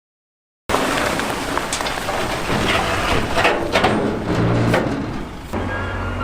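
Rocks and stones tumbling and clattering over each other under heavy earthmoving machinery, a dense crackle with many sharp knocks. A little over five seconds in, the crackle stops and a diesel engine is left running steadily.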